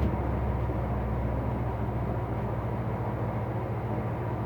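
A steady, low mechanical hum that does not change.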